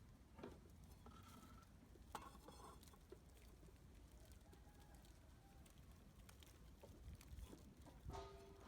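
Near silence: a faint low steady rumble, with a few faint brief sounds in the first few seconds and again near the end.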